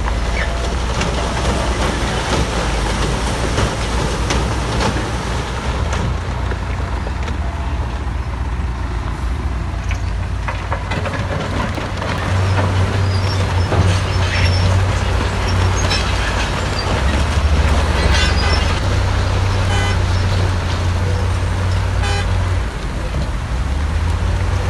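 The diesel engine of a heavy earthmoving machine runs with a deep drone, its load rising about halfway through and again later, then easing briefly near the end. Scattered knocks and clatter, like rocks or steel tracks, come in the middle part.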